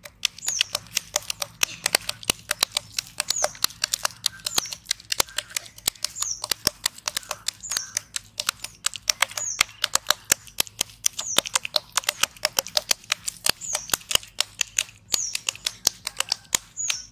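A bird repeating a short, high, falling chirp about every second and a half, over dense, rapid, irregular clicking.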